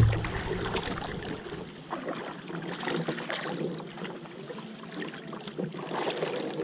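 Water splashing and lapping around a tandem kayak out on open water, with irregular small splashes and some wind.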